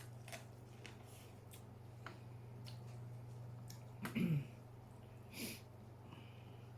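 Close-miked eating sounds: small mouth clicks and smacks while chewing seafood, with a short, loud vocal noise of falling pitch about four seconds in and a softer one a second later. A steady low hum runs underneath.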